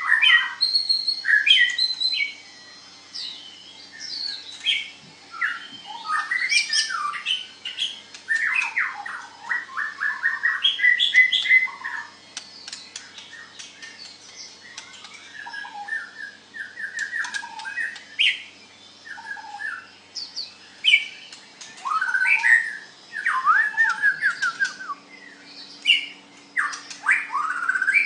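White-rumped shama singing: varied whistled phrases, sliding notes and rapid chattering runs, in bursts separated by short pauses.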